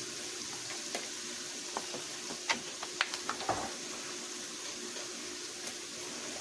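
Onions frying in olive oil in a pan, a steady sizzle, with a few sharp clicks and taps between about one and four seconds in.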